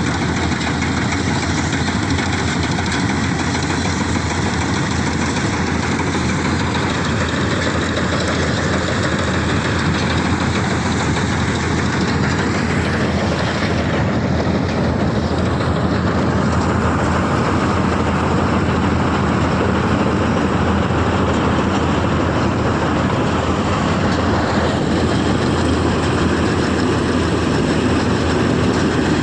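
Combine harvester running steadily while harvesting a rice crop: a loud, even engine and machinery drone.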